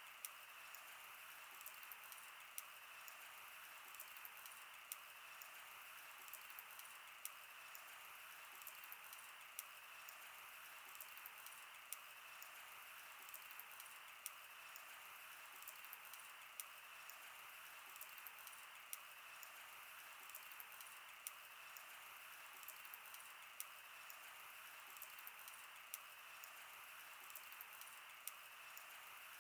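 Wood campfire burning: a soft steady hiss with constant small crackles and a sharper pop every second or two.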